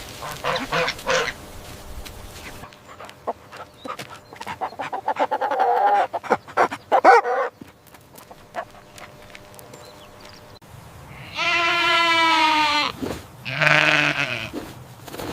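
Goats bleating: a long, quavering, higher bleat, then a shorter, deeper one right after it, near the end. Before them there are scattered rustling and knocking noises.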